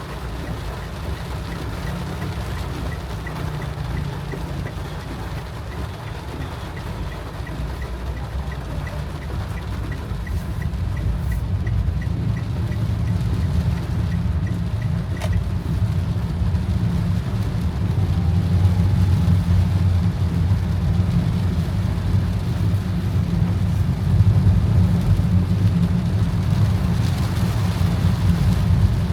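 Car cabin noise: a steady low rumble of engine and tyres on a wet road that grows louder through the second half as the car picks up speed. A light, quick, regular ticking runs through the first half and stops about halfway.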